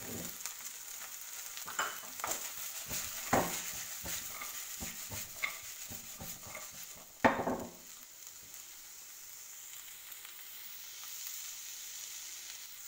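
Chicken and vegetables sizzling in a non-stick wok, with a spatula scraping and knocking against the pan as they are stirred. Knocks come every second or so, the loudest about seven seconds in, after which only the steady sizzle remains.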